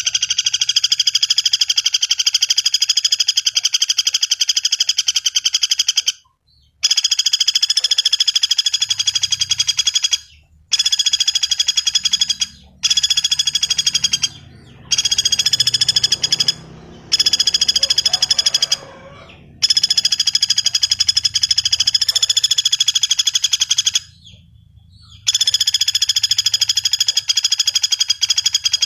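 Common flameback woodpecker (pelatuk bawang) calling: long, rapid rattling trills of a few seconds each, about eight of them with short breaks between.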